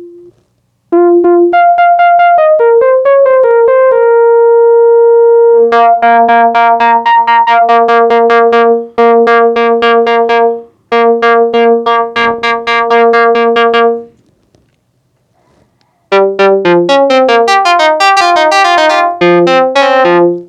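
Bitwig Polymer software synthesizer with a phase one oscillator playing notes and chords, its sustained tone chopped by an LFO into a fast, even pulsing of about five beats a second. It stops for about two seconds, then comes back as a quicker run of changing notes.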